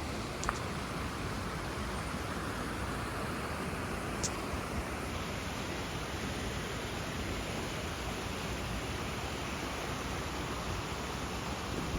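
Creek running high with rain and snowmelt, a steady rush of water passing under a bridge, with a couple of small clicks about half a second in and about four seconds in.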